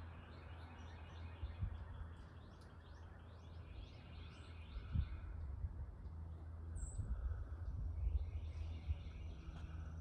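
Songbirds chirping in quick repeated series of notes, over a steady low outdoor rumble with a few bumps.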